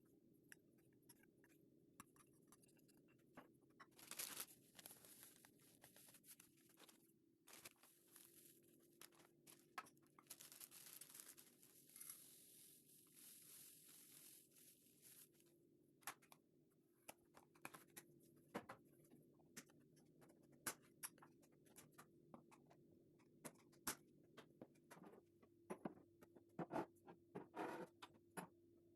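Faint kitchen handling: scattered light taps, clicks and scrapes, with two stretches of soft rustling or hissing, over a low steady hum.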